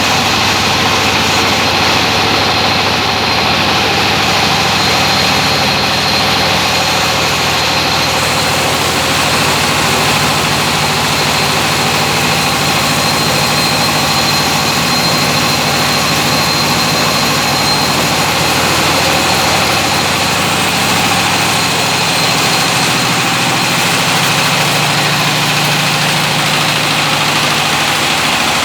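12.5 kW diesel engine powering a Maize Master MM500 maize mill, running loud and steady.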